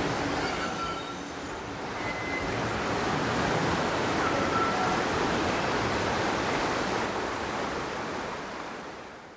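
A train running past on the line: a steady rumble with a few brief, faint wheel squeals, fading out near the end.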